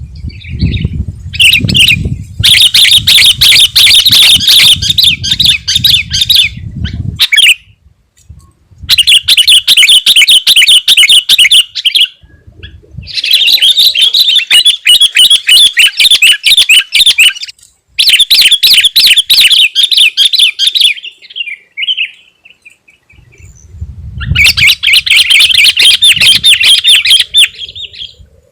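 Sooty-headed bulbul singing loudly in long, rapid chattering bursts of a few seconds each, about five of them with short pauses between. A low rumble runs under the first and last bursts.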